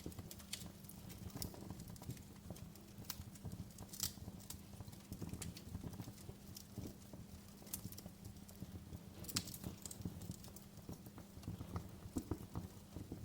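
Wood fire crackling in a fireplace: irregular sharp pops and snaps over a low rumble of burning wood. A louder snap comes about four seconds in and a cluster of strong snaps a little past the middle.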